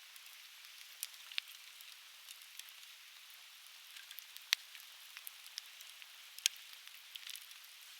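Conifer firewood burning and crackling: irregular sharp pops over a steady hiss, the loudest pops about four and a half and six and a half seconds in.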